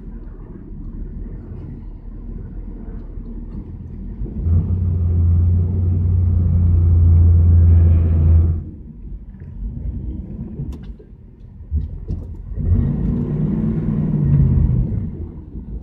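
1977 Chevrolet Camaro's engine running as the car drives off, heard from inside the cabin. The engine gets louder for about four seconds from around four seconds in, then revs up and back down near the end.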